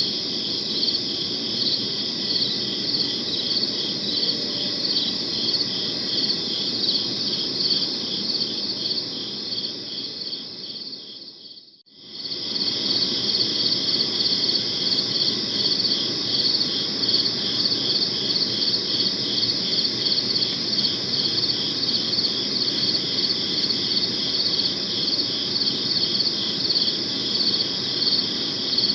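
Crickets chirping in a dense chorus of rapid, evenly pulsed trills over a low, even background noise. The sound fades out to a moment of silence about twelve seconds in, then fades straight back in.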